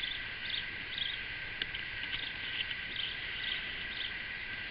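Crickets trilling steadily in a high, even chorus, with faint short chirps about twice a second above it.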